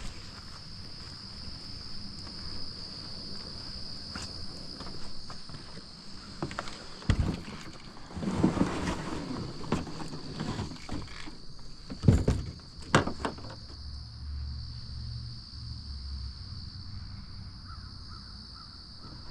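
Outdoor waterside ambience: a steady high-pitched drone throughout, with birds calling and a few sharp knocks around the middle.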